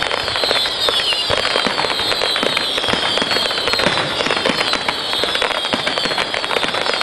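A fireworks finale traca: a dense, unbroken rattle of bangs and crackles, with many high whistles sliding down in pitch over it.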